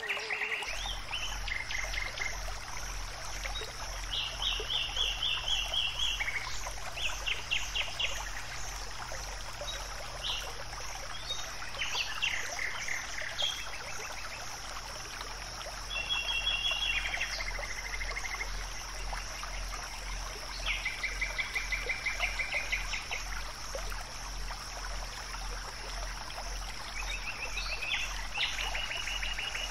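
Several small birds singing, with short trilled phrases repeated every second or two, over a steady high-pitched hiss and a low hum.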